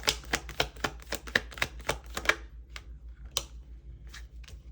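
Tarot cards being shuffled by hand: a fast run of crisp card clicks, about six a second, that stops about two seconds in, followed by a few single card snaps.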